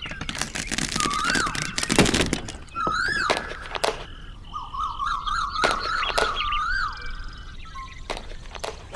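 Irregular knocks and thunks, with short rising whistle-like chirps in between and a warbling call in the middle.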